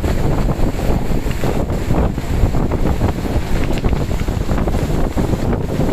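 Strong storm wind buffeting the microphone in gusts, over the steady wash of high sea waves.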